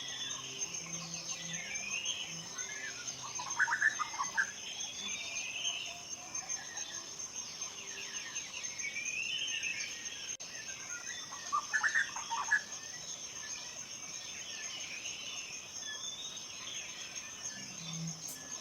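Forest birdsong over a steady high insect drone. One bird repeats an arching song phrase again and again, and a lower, rapid chattering call cuts in twice, about four seconds in and about twelve seconds in.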